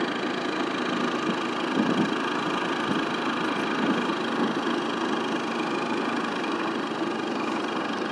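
A vehicle engine running steadily, the sound of the vehicle the recording is made from as it moves along the road.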